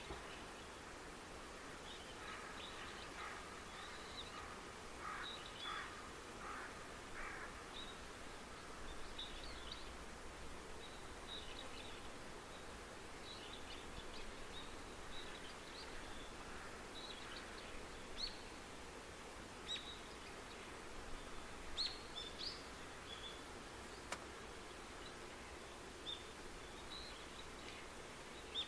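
Outdoor ambience of small birds chirping: many short, high chirps scattered over a steady background hiss, with a busier cluster of lower calls in the first few seconds.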